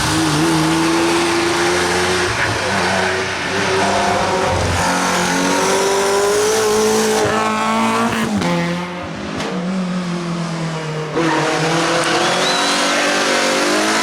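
Rally cars at full throttle on a stage, engine pitch climbing and dropping with gear changes and lifts. The sound changes abruptly about 8 seconds in, drops for a few seconds, and jumps back up near 11 seconds as another car's engine takes over.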